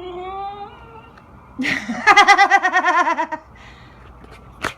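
A woman giggling: a drawn-out high note, then a quick run of laughs, followed by a sharp click near the end.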